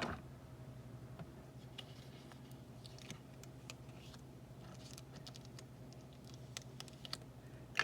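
Faint taps, clicks and rustles of paper card stock and small craft tools being handled on a tabletop, over a steady low hum.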